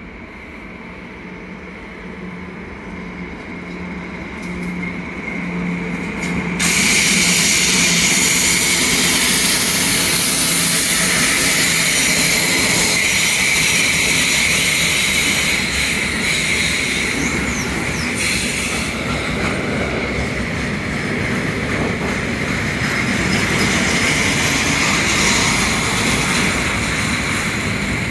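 Freight train of grain wagons, hauled by a class 155 electric locomotive, rolling past. It grows louder and then, about six seconds in, turns abruptly into loud, steady rolling noise with a high, constant wheel squeal.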